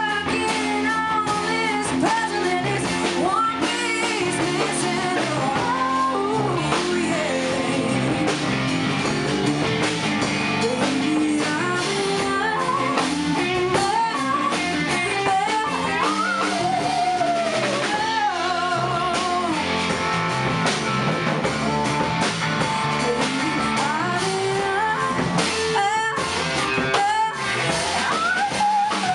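A rock band playing a song: a lead voice singing over guitar and a drum kit.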